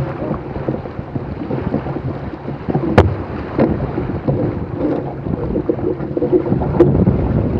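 Wind buffeting the microphone over water rushing and splashing along a small sailboat's hull as it sails fast through swells. A sharp loud slap comes about three seconds in, with smaller ones later.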